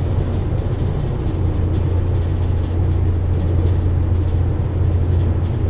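Steady low drone of a vehicle's engine and road noise heard from inside the cabin while driving.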